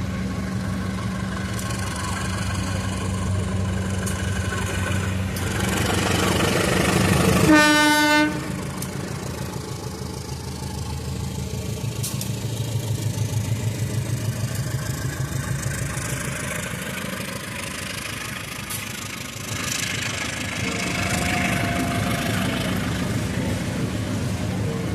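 Diesel locomotive approaching with its engine running, sounding one short horn blast about a third of the way in, then passing with a rhythmic clatter of wheels on rail joints.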